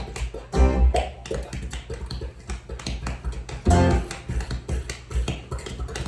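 Music played back through JBL Eon 612 powered PA speakers, with a run of fast percussive strokes and deep bass hits about every three seconds.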